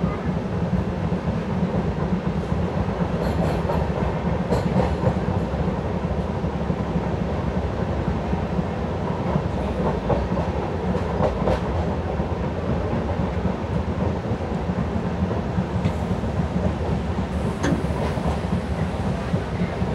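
Running noise of an LHB passenger coach at speed: a steady rumble of wheels on the track, with a few sharp clicks now and then.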